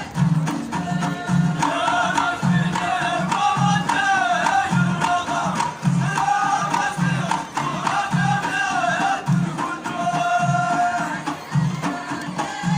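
Moroccan Amazigh folk music: singing over a steady drum beat. The singing comes in about two seconds in and drops out near the end, while the drum beat carries on.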